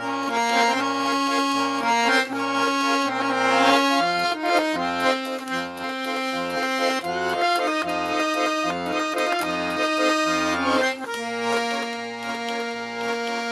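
Garmon (Russian button accordion) playing an instrumental passage: a melody of held reed notes over an even, pulsing bass-and-chord accompaniment.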